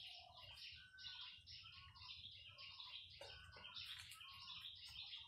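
Faint chirping of small birds, many short calls overlapping one another.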